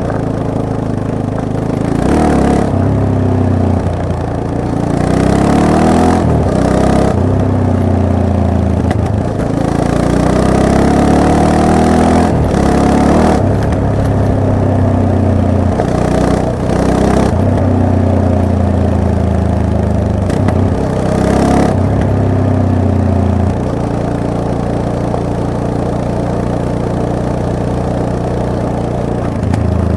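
Yamaha MT-03 motorcycle engine under way, its pitch climbing and dropping again and again as the throttle is opened and closed. It settles to a steady low note for about the last six seconds.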